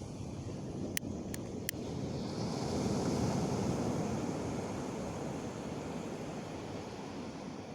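Sea waves washing on the shore in a steady rush that swells about two to three seconds in. Three short sharp cracks come in quick succession about a second in.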